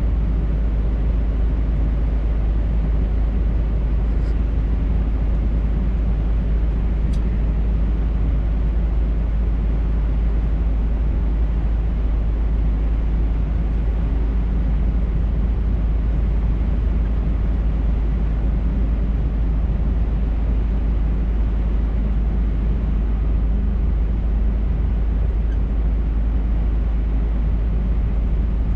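Scania R580 truck under way: the steady drone of its V8 diesel engine and road noise, with no change in pace. Two faint ticks sound about four and seven seconds in.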